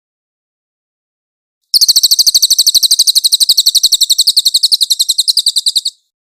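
Cililin bird song: after about two seconds of silence, a fast, high-pitched trill of evenly repeated notes, about fifteen a second, runs for about four seconds and stops abruptly.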